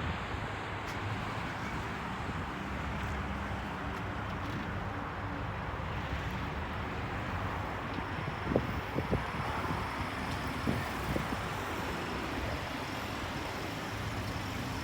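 Pickup truck running as it is driven out, with wind on the microphone; a few short knocks between about eight and eleven seconds in.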